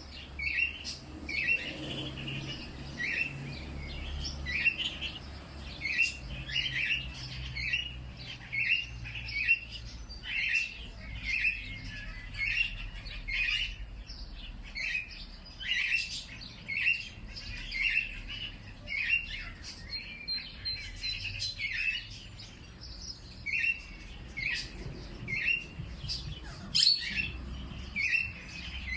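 Birds chirping: short, high chirps repeated about one or two a second, over a low steady rumble, with a louder, sharper note near the end.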